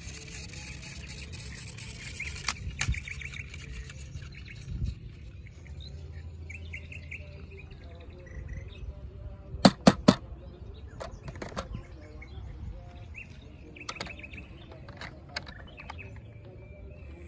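Birds chirping over a low steady background, broken by sharp knocks. The loudest are three quick clicks about ten seconds in.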